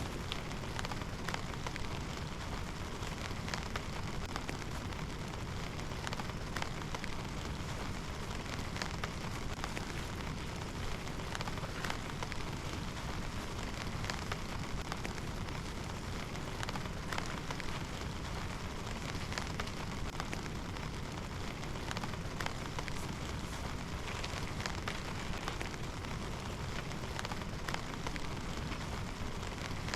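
Steady rain falling, with many single drops ticking sharply on a nearby surface.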